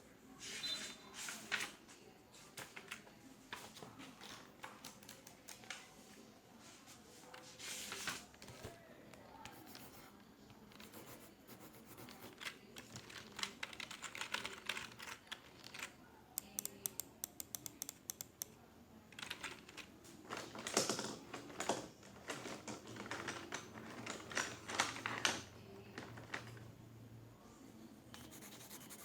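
Typing on a computer keyboard: irregular keystrokes in bursts, with a fast run of clicks a little past the middle.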